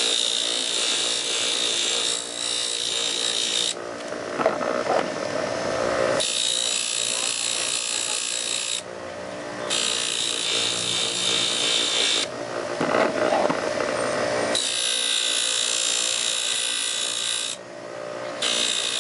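Powered rag buffing wheel running while a serrated knife blade is polished against it. A steady high-pitched hiss drops away briefly and comes back several times as the blade is worked on the wheel, leaving a few short rasping patches.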